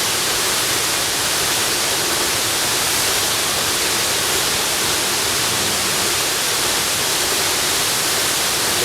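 Waterfall: a steady rush of falling water, even and unchanging, with a strong hiss.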